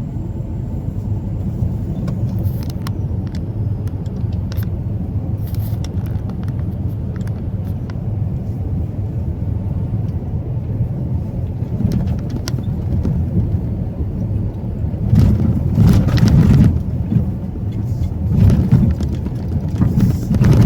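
Truck engine and road noise in a steady low drone while driving, with scattered clicks and rattles. It swells louder twice in the last few seconds.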